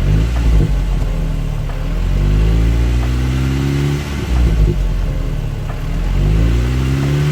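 2013 VW Golf R's turbocharged four-cylinder engine through an APR cat-back exhaust, accelerating: the engine note climbs, falls back about four seconds in as if at a gear change, then climbs again near the end, over road and wind noise.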